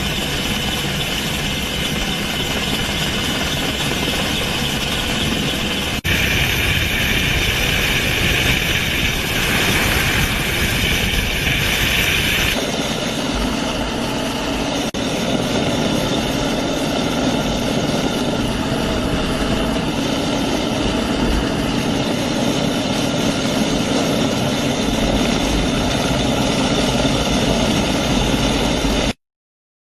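Helicopter rotor and engine running loud and steady, with the sound shifting abruptly a few times and cutting off suddenly near the end.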